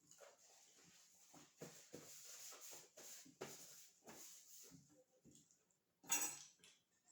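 Faint eating sounds: chewing with small irregular clinks and scrapes of cutlery on dishes, and one short louder burst about six seconds in.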